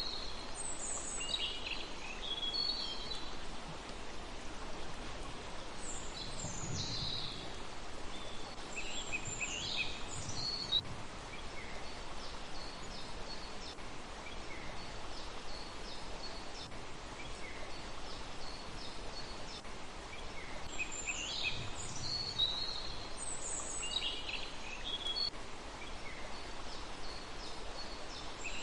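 Small birds calling in clusters of short, high chirps a few seconds apart, over a steady background hiss.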